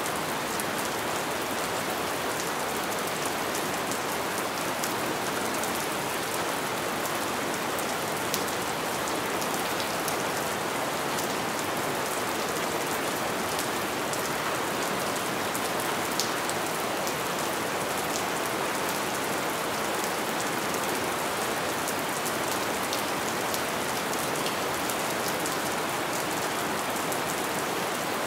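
Light rain falling steadily: an even hiss of rain with scattered individual drop ticks, a couple of them sharper about 8 and 16 seconds in.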